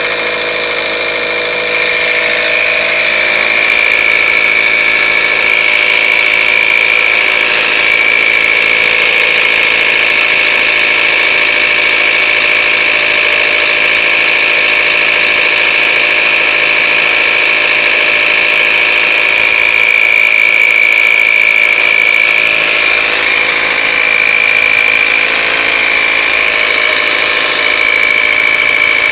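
Toyota 4A-GE twin-cam four-cylinder engine running, with a diesel-like rattle from its faulty VVT cam phaser (the variable valve timing clutch), recorded before its repair. The sound steps up in loudness about two seconds in and then holds steady.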